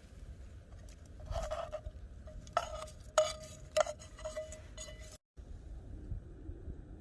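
A metal utensil stirring and knocking against a metal cooking pot: three sharp clinks, the pot ringing with a steady tone after each. The sound cuts off suddenly about five seconds in.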